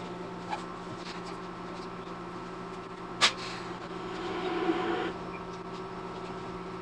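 Steady hum inside a stopped E231-series electric commuter train, with a single sharp click about three seconds in.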